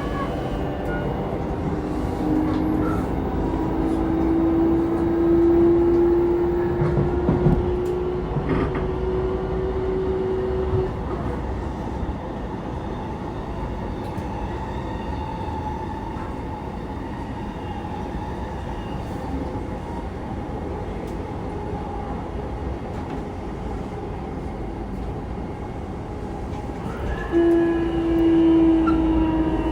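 Running sound inside an E233 series 3000 electric train at speed: steady wheel and rail noise. A traction motor whine rises slowly in pitch for several seconds early on, fades out, and comes back near the end.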